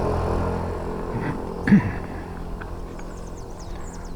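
A motor vehicle's steady hum fading away, then one short, loud animal call about a second and a half in, followed by faint high bird chirps.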